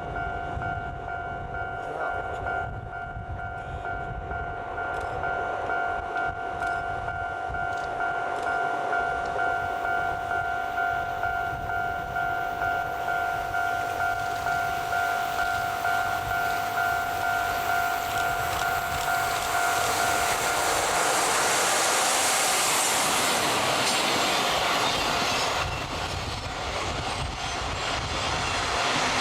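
Train running on the rails, its wheels clicking over the rail joints in a steady rhythm. A steady high tone sounds through the first two-thirds and then stops, followed by a louder rushing noise for several seconds.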